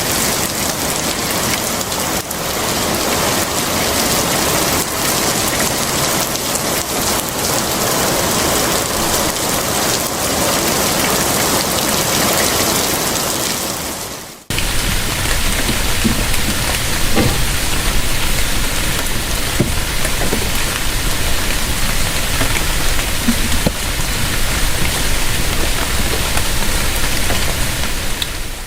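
Steady, heavy rain falling and pattering on surfaces. About halfway through it breaks off abruptly and resumes with more low rumble underneath.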